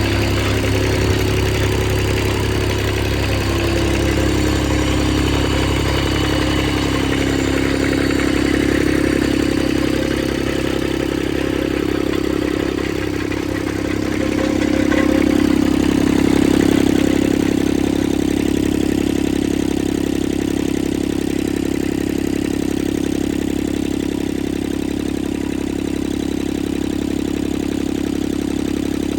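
Three-cylinder Kubota mower engine running at a steady idle, growing a little louder about halfway through before settling back.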